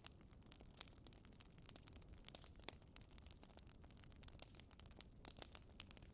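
Quiet crackling of a wood fire in a fireplace: irregular sharp pops and snaps, several a second, over a steady low rumble.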